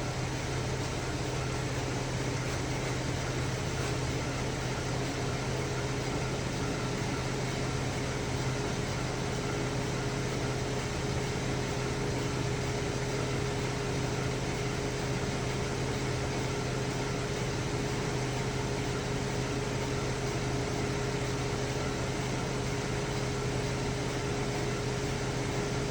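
2010 Chevy Traverse's 3.6-litre V6 idling steadily with a low, even hum and a faint steady whine above it. The owner hears it as clearly not right: the engine has logged misfires on cylinders 1, 3 and 5, though none is showing at this moment.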